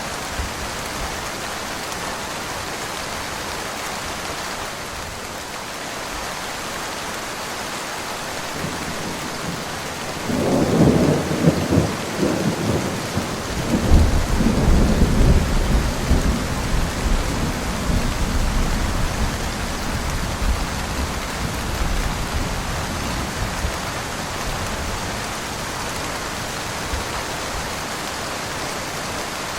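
Steady rain falling, with a thunderclap about a third of the way in: a sharp crackle first, then a deep rolling rumble that dies away over several seconds.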